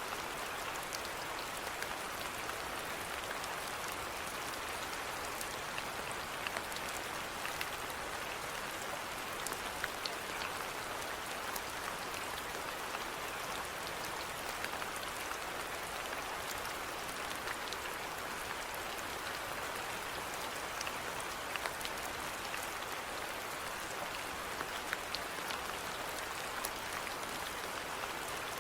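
Steady rainfall with close, scattered raindrop patters.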